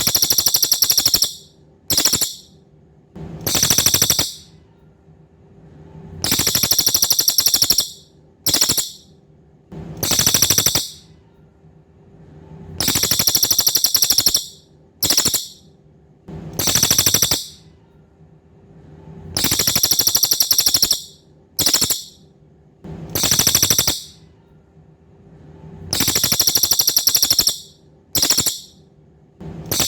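Cililin songbird calling in high, rapidly pulsed buzzy trills: a long phrase, a short one and a medium one, with the set of three repeating about every six and a half seconds.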